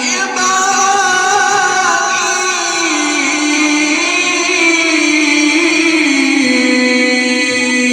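A male reciter chanting the Quran in the melodic mujawwad style. He ends the word "al-kitab" and then draws out one long melismatic phrase, the pitch sliding and wavering slowly through held notes.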